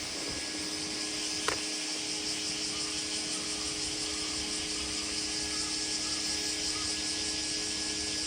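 Steady outdoor summer ambience: an even high hiss with a low steady hum under it, and a single sharp click about a second and a half in.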